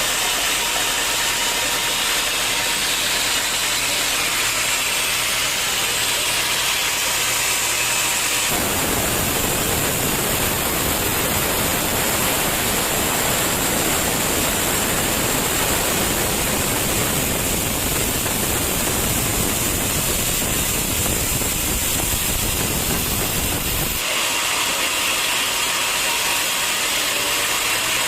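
Sawmill machinery running steadily. The sound changes abruptly about eight seconds in to a fuller noise with more low rumble, and switches back about four seconds before the end.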